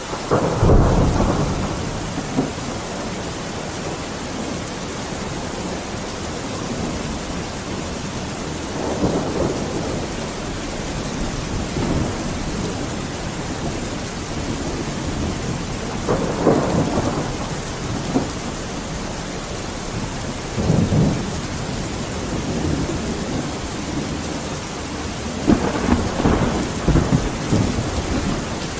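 Steady rain hissing with thunder rolling through it: a loud, sharp-onset rumble just after the start, then four more rumbles, the last a longer rolling spell near the end.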